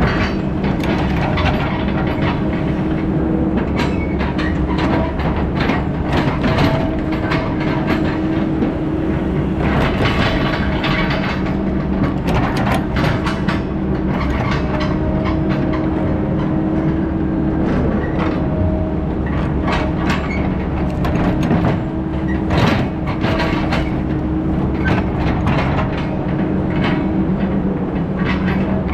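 Heavy diesel logging equipment running steadily, with frequent irregular rattling and clanking of metal.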